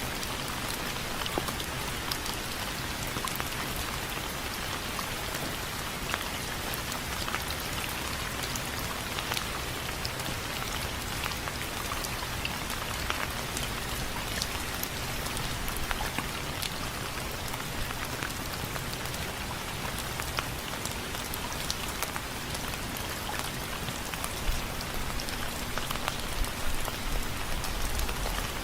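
Steady rain falling on window frames: a constant hiss with many sharp, irregular drop ticks. A few heavier drips land near the end.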